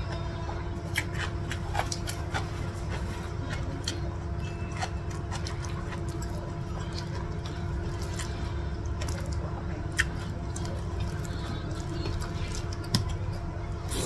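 Close-up chewing and small wet mouth clicks of someone eating chicken and rice by hand, with sharper clicks now and then, over a steady low hum.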